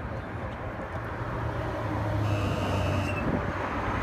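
Street traffic: a vehicle engine running with a steady low hum, growing louder in the second half, and a brief high squeal about two seconds in.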